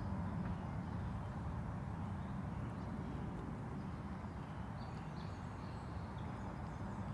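Faint chirps of a small songbird, which the person filming thinks may be a wren, starting about halfway through and getting higher near the end, over a steady low rumble.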